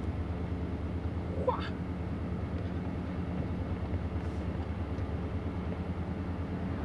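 Steady low hum of a car's engine and road noise inside the cabin while driving, with one brief rising chirp about a second and a half in.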